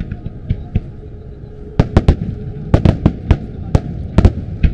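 Fireworks bursting in a rapid-fire barrage (a starmine): a string of sharp bangs, a few lighter ones at first, then a dozen or so loud reports in quick clusters from about two seconds in.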